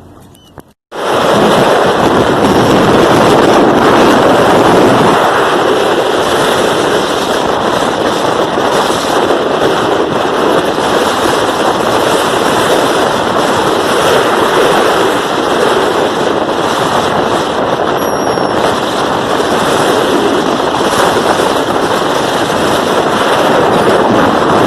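Loud, steady rushing noise of beach wind and surf, starting abruptly about a second in, with a faint high call near the three-quarter mark.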